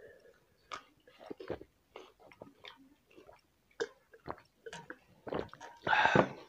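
Close-miked chewing and wet lip-smacking of people eating chicken gizzard curry by hand, in scattered short clicks, with a louder rush of noise about six seconds in.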